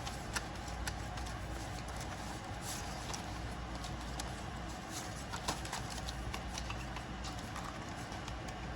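Paper banknotes and cash envelopes being handled: soft rustling and a few scattered light taps over a steady room hiss.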